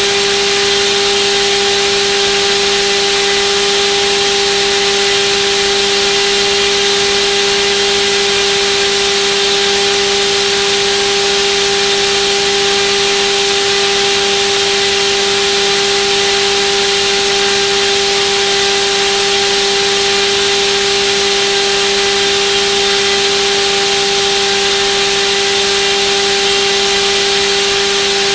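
Turnigy D2826/10 1400kV brushless outrunner motor spinning a propeller on a thrust test, held at a steady speed: a loud, even whine with a rush of air that does not change in pitch.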